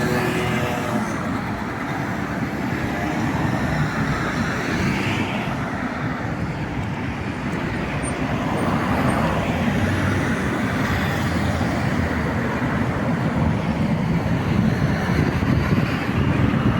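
Road traffic passing: a continuous rush of car tyre and engine noise that swells a few times as vehicles go by.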